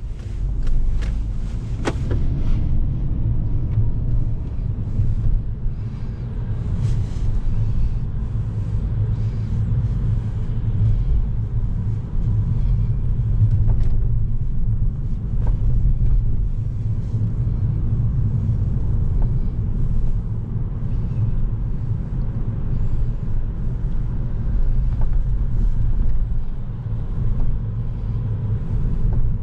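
Low, steady engine and road rumble of a 2011 Volkswagen Golf VI with the 1.4 TSI four-cylinder petrol engine and DSG gearbox on the move, swelling and easing a little as it drives. A few sharp clicks come in the first two seconds.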